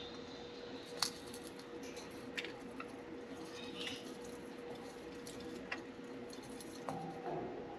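Budgerigars picking and chewing at a soft-wood shredding toy: scattered small clicks and taps a second or more apart, with a brief chirp about four seconds in, over a faint steady hum.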